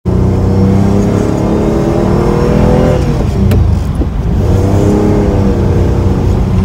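Citroën SM's Maserati V6 engine pulling the car along, heard from inside the cabin. The engine note climbs, falls away about three seconds in, then climbs again and settles.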